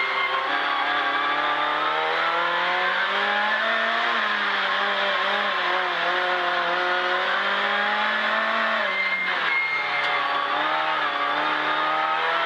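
Citroën C2 R2 Max rally car's four-cylinder engine, heard from inside the cabin while driven hard. Its note rises and falls with the throttle, and the revs drop clearly about nine seconds in, then climb again.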